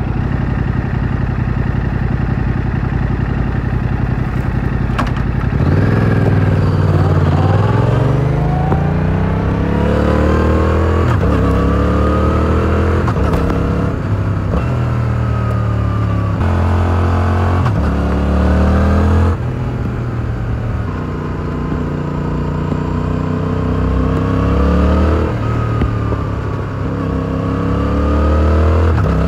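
Stock exhaust of a 2022 Yamaha R7's 689 cc parallel-twin engine, steady at low revs for the first few seconds, then accelerating away about six seconds in, its pitch climbing and dropping back at each of several upshifts. The revs ease off to a steadier cruise midway and climb again near the end.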